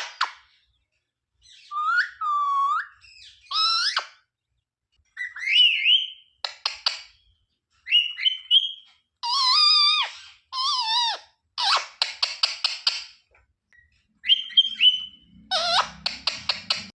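Pet parrot calling in short bouts: rising and falling whistles, warbling calls and rapid chattering trills of short notes, with brief pauses between bouts.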